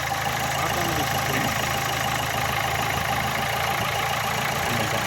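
Nissan Sunny's engine idling steadily, running with a newly fitted alternator while the headlights and air conditioning are switched on to load it.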